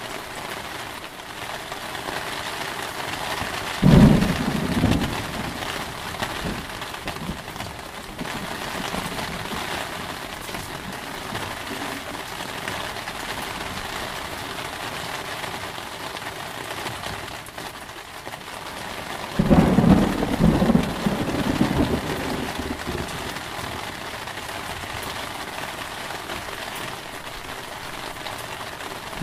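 Steady heavy rain with two claps of thunder, one about 4 seconds in and a longer one about 19 seconds in, each rumbling for a couple of seconds before fading back into the rain.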